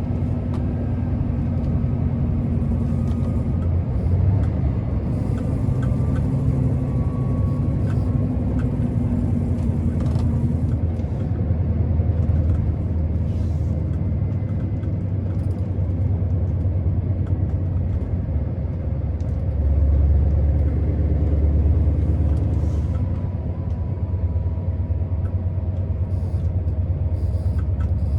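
Scania R650's V8 diesel engine running on the move, a steady low rumble that swells louder for a few seconds about two-thirds of the way through.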